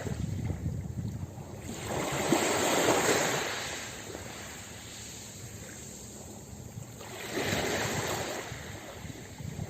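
Ocean waves breaking on a beach, two waves surging in and washing out one after the other.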